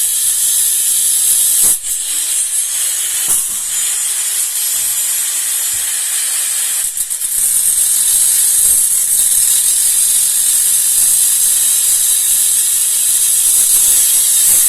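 Angle grinder cutting: a loud, steady, high hiss with brief dips about two seconds in and again about seven seconds in.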